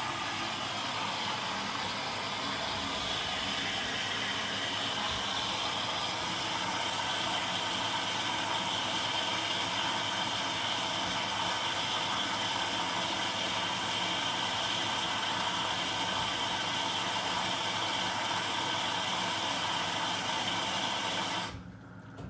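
Zanussi DL22 washing machine running steadily during a 90 °C boil wash, a constant whooshing machine noise that cuts off sharply about 21 seconds in.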